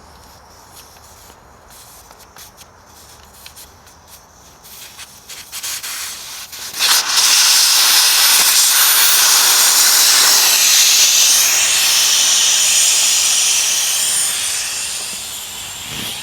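Compressed air escaping with a loud steady hiss that starts about seven seconds in and tapers off gradually near the end, as the pressure drops. Before it there are faint clicks and handling noises.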